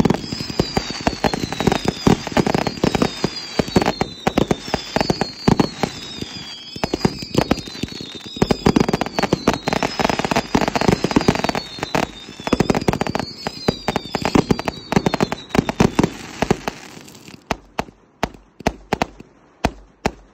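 Consumer fireworks firing in a dense barrage of shots, bursts and crackle, with a run of whistles that each fall in pitch. After about seventeen seconds the barrage thins to a few scattered pops.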